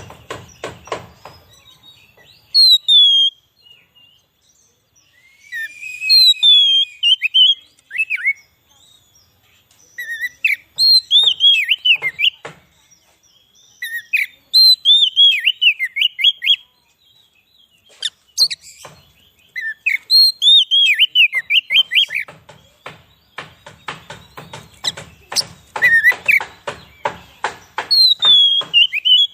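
Oriental magpie-robin singing: loud whistled phrases of mostly falling notes, repeated every few seconds, mixed with runs of quick clicking notes that grow dense near the end.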